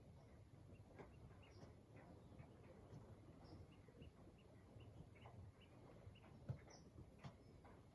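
Near silence: faint outdoor ambience with scattered short, high chirps and soft clicks over a low rumble.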